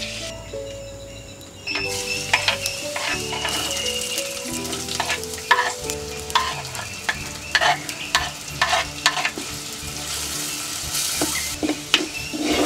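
Chopped red onions and green chillies frying in hot coconut oil in an earthenware pot, sizzling steadily, while a wooden spoon stirs and knocks and scrapes against the pot in sharp, irregular strokes. The sizzle sets in abruptly about two seconds in.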